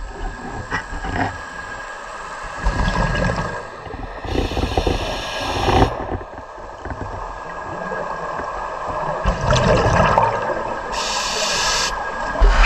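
Scuba breathing heard underwater: the regulator hisses twice and exhaled bubbles gurgle between the hisses.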